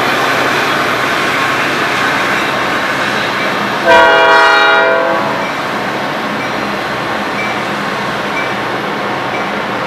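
A passing train's steady rumble and rail noise, with one short blast of its air horn, several notes sounding together, about four seconds in and lasting about a second.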